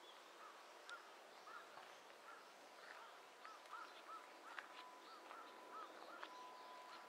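Faint birdsong: a quick series of short chirps, about two a second, through the middle, over a thin steady high tone.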